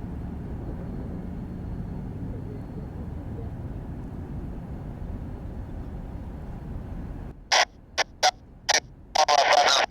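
Low, steady rumble of a Boeing 737 MAX 9's jet engines on its takeoff run, cutting off abruptly about seven seconds in. Then four short crackles of airband radio static, turning into a continuous hiss near the end.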